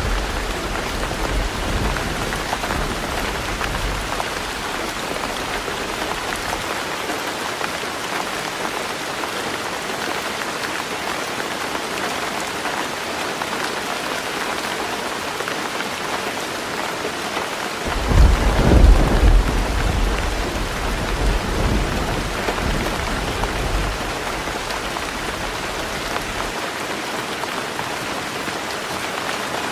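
Heavy rain pattering steadily on a roof. A low roll of thunder dies away over the first few seconds, and another, louder rumble of thunder swells about eighteen seconds in and fades over the next several seconds.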